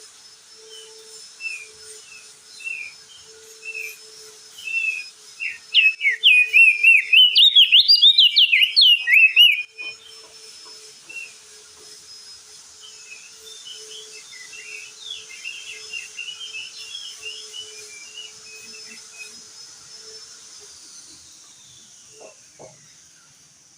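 Crested white-eye (opior jambul) singing. Short spaced chirps lead into a loud, fast warbling phrase from about six to ten seconds in, then softer twittering.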